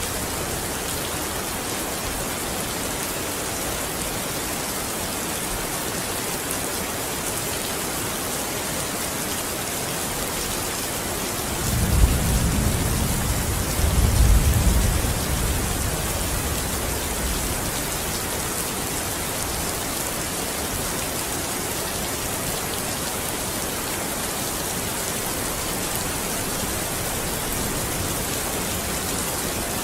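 Steady rain hissing against a window pane. About twelve seconds in, a low roll of distant thunder rumbles, peaks again about two seconds later and fades away over a few seconds.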